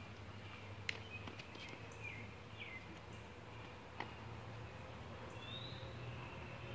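Birds chirping faintly over a steady low hum, with two sharp clicks, one about a second in and one about four seconds in.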